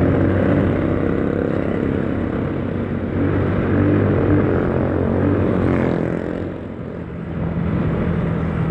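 Yamaha Mio scooter engine running while riding, with rushing wind noise over it. The sound eases off briefly about seven seconds in, then picks up again.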